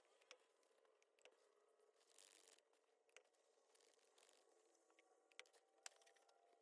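Near silence: faint room tone with a low steady hum and a few soft clicks and rustles of handling.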